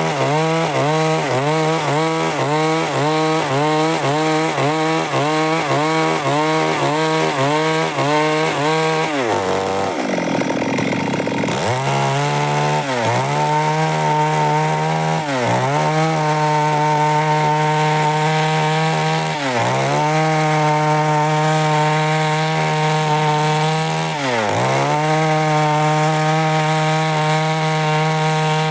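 Stihl MS 382 two-stroke chainsaw running at full throttle while sawing wood. For the first several seconds its pitch dips in a quick rhythm of almost two a second; it falls away briefly about ten seconds in, then runs steady with an occasional short dip.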